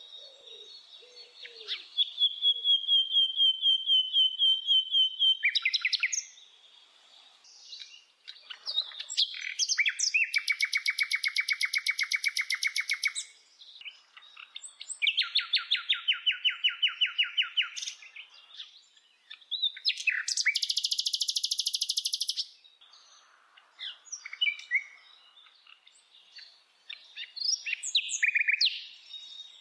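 A bird singing a varied song: several long runs of rapid, evenly repeated notes, high-pitched and each lasting two to three seconds, separated by softer scattered chirps and short pauses.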